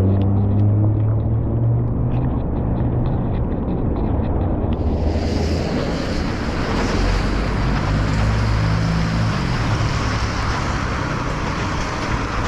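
Outdoor road noise: a steady rumble of passing motor traffic, with an engine hum that rises and falls in pitch about two-thirds of the way in. A run of faint, rapid ticks comes in the first few seconds.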